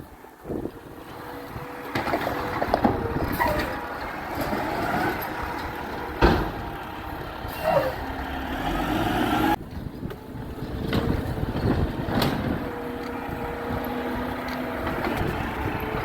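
Garbage truck running, with a rising and falling whine and a sharp bang about six seconds in.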